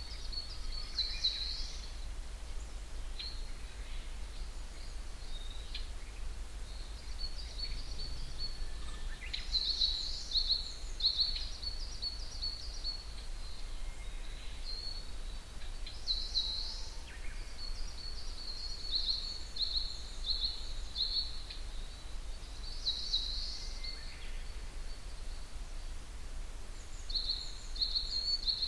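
Wild birds singing in the dawn chorus: bursts of high-pitched, rapid chirping trills come every few seconds, with several birds overlapping.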